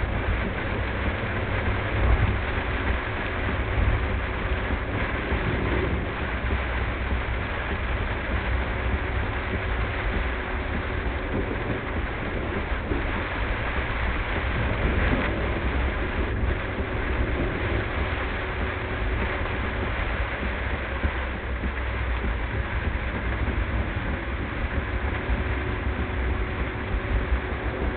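Steady noise of a car driving on wet roads in heavy rain, heard from inside the car and played at double speed, with a deep rumble under it.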